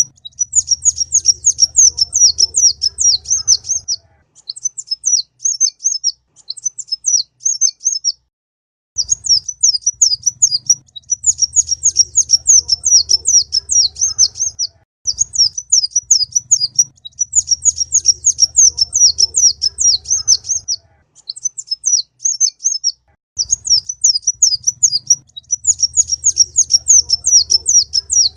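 A kolibri ninja sunbird singing a rapid, high-pitched chattering song. It comes in bouts of a few seconds separated by short pauses. A faint low hum rides under some of the bouts.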